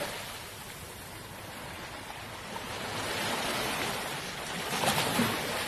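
Ocean surf washing, an even rush that swells gently in the middle and again near the end.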